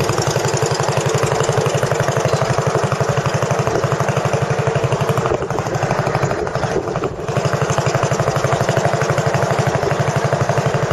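Boat engine running steadily with a fast, even pulse, briefly dipping in level about six seconds in.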